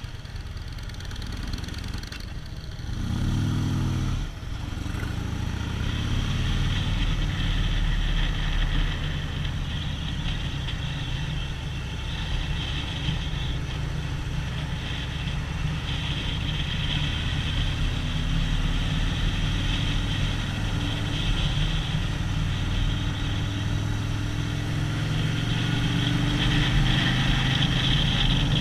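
Harley-Davidson V-twin motorcycle engine running steadily under way, with a brief rev about three seconds in and a steady hiss above it.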